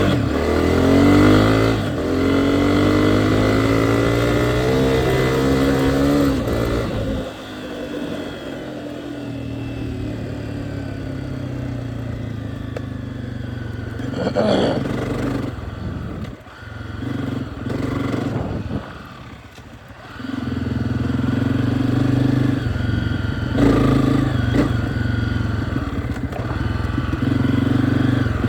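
Dirt bike engine revving, its pitch climbing and falling over the first several seconds, then dropping back to a quieter, lower running with a few clattering knocks, before picking up again and running steadily from about two-thirds of the way in.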